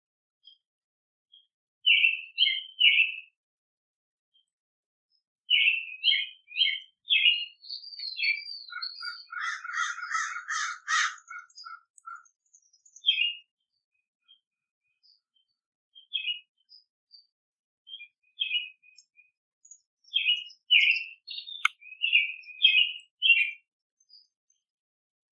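Songbirds chirping in quick clusters of short high notes, with a harsher, rapid buzzy stretch partway through and a gliding whistle over it.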